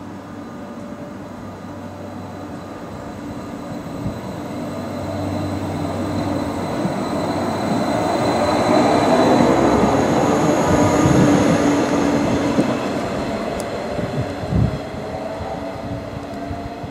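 Thurbo Stadler GTW electric multiple unit (RABe 526) pulling away from the platform and passing close by. Its motor whine and wheel noise swell to a peak as it goes past, then fade as it draws away, with a single clunk about three-quarters of the way through.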